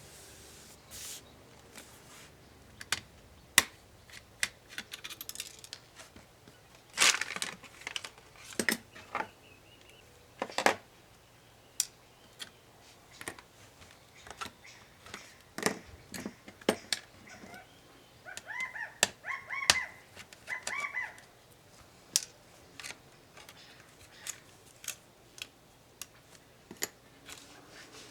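Irregular clicks, taps and scrapes of small tools and plastic and metal parts being handled while an HP ProBook 450 G5 laptop is taken apart, with a few short squeaks about two-thirds of the way through.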